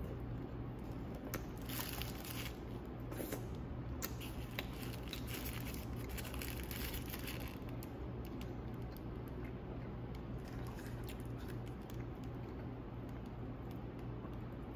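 Close-up chewing of a mouthful of burger, a run of small wet clicks and crunches that are busiest in the first half, with the paper wrapper crinkling in the hands. A steady low hum runs underneath.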